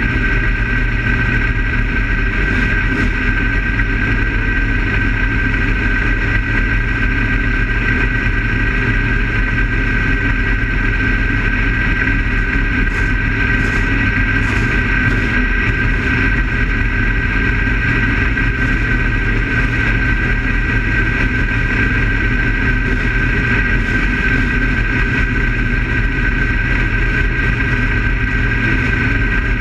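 Race car engine idling steadily, heard from inside the cockpit.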